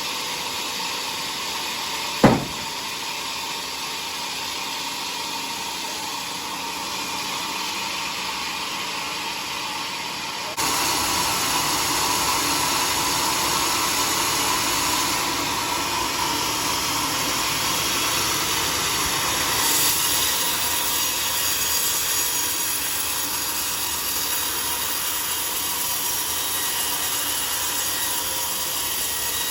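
Sawmill saw running and cutting through a teak log, a steady noisy sawing sound. A single sharp knock comes about two seconds in, and the sound steps up suddenly in loudness about ten seconds in.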